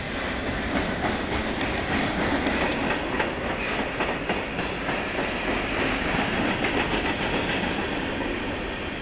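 Freight train cars rolling past close by: a steady rumble and rattle of steel wheels on the rails, with many short clicks from the wheels.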